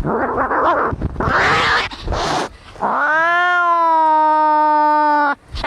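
Domestic cats fighting: about two seconds of harsh, noisy screeching, then after a short break one long yowl that rises in pitch and then holds level before it cuts off.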